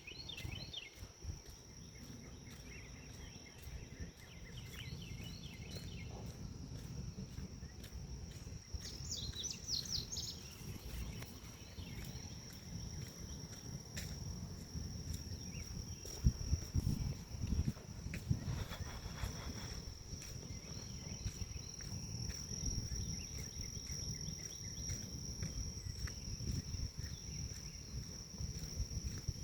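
Forest insects keep up a steady high trill while small birds chirp in short bursts now and then. Uneven low rumbling from wind and walking runs underneath, heaviest a little past the middle.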